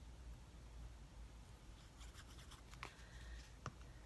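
Near silence: room tone with a few faint light ticks and rustles of handling at a craft table, between about two and three and a half seconds in.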